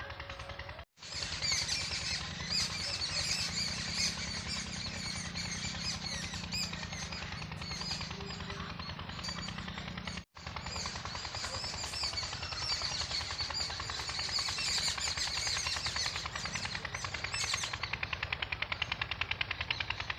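Dense evening chorus of many small birds chirping and twittering at once, over a fast, even pulsing. The sound cuts out for an instant twice, about a second in and again about ten seconds in.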